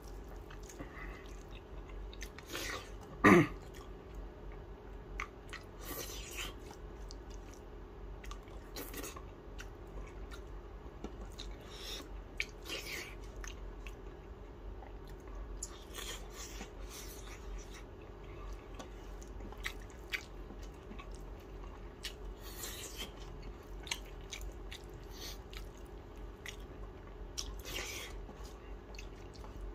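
Close-up eating sounds of a person chewing rice and chicken sausage eaten by hand, with many short wet mouth clicks and smacks. About three seconds in there is one brief, loud vocal sound that rises in pitch.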